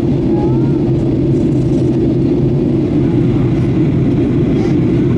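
Steady cabin noise of a Boeing 737-800 in flight, heard from a window seat behind the wing: a loud, even low rumble of its CFM56-7B jet engines and airflow over the fuselage.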